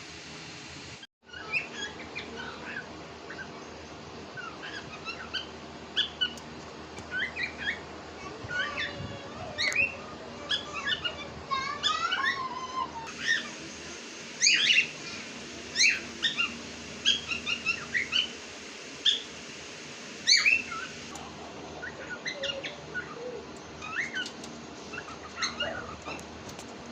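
Several cockatiels chirping and whistling, with many short calls overlapping throughout.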